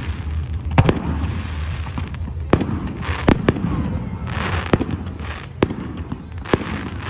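Aerial fireworks going off: sharp bangs about once a second, with bursts of crackling hiss between some of them.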